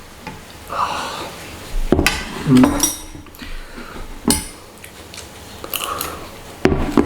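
Cutlery clinking and scraping against a plate of fried rice several times as food is scooped up, with a few faint mouth sounds between the clinks.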